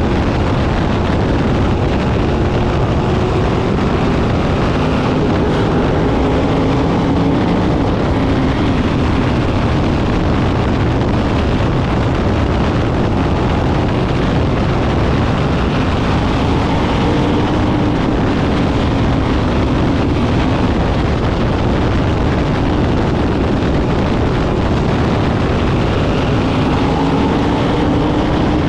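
A field of sprint cars racing on a paved oval, their engines running at high revs in a continuous loud roar, with engine notes rising and falling in pitch again and again as cars sweep past.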